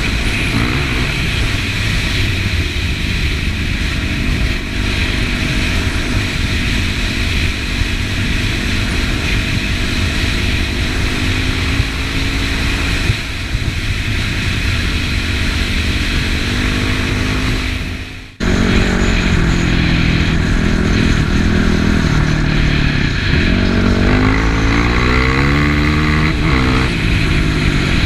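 Yamaha WR450F single-cylinder four-stroke dirt bike engine running while riding, cutting out briefly about two-thirds of the way through. Near the end it climbs in pitch several times as it accelerates.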